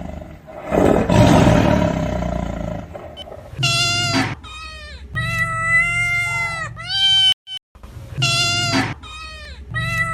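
A rough, low roar lasting about two seconds, followed by a string of high, drawn-out animal cries. The cries break off briefly and then the same cries repeat.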